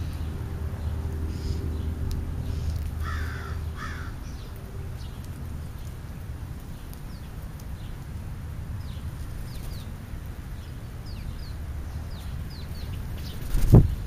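Birds calling at a ground feeding spot: two harsh calls a few seconds in, then a string of short, high, falling chirps. Near the end a loud thump as a bird lands or flaps right next to the microphone.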